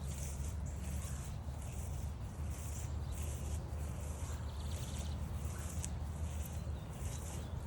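Footsteps at an even walking pace, about one every 0.6 seconds, each with a soft swish like brushing through grass, over a low steady rumble.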